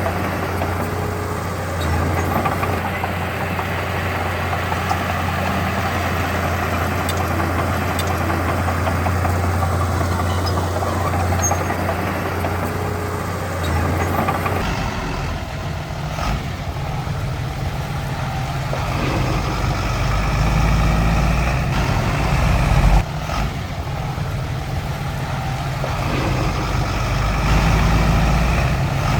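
Heavy diesel machinery engines running steadily. About halfway through the engine note changes to a deeper one, which then swells louder twice.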